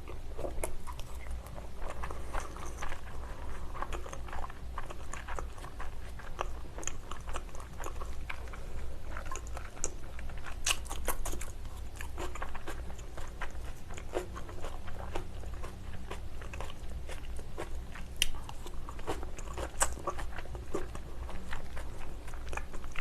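Close-miked chewing of a salmon sashimi meal: soft wet mouth sounds with many short, sharp clicks scattered throughout.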